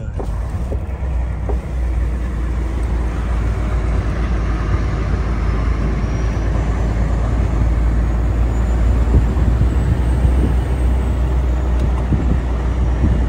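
Heavy truck's diesel engine and road noise while driving, a steady low rumble that grows slightly louder about two seconds in.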